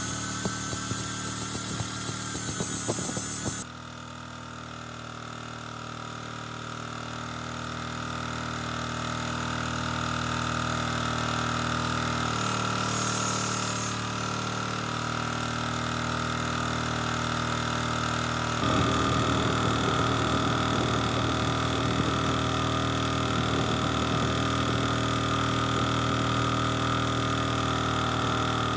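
Engine of a restored Yanmar generator running steadily with a constant hum. It opens with a few seconds of clattering work noise that cuts off suddenly, and the running gets louder and rougher about two-thirds of the way through.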